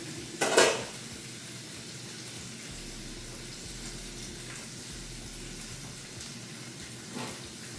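Food sizzling steadily in a frying pan, an even hiss, with one short sharp sound about half a second in.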